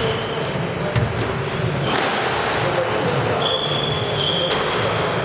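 Squash being played in a hall: two sharp strikes of racket and ball against the wall about a second apart, then a long shoe squeak on the court floor, over steady hall noise.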